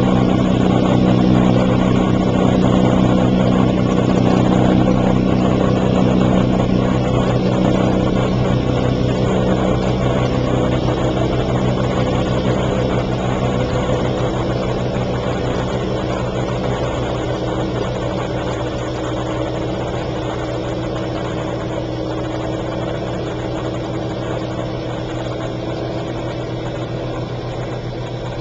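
1957 James portable dishwasher running, its motor humming steadily under the noisy rush of water being sprayed and churned inside the tub, the whole sound gradually getting quieter.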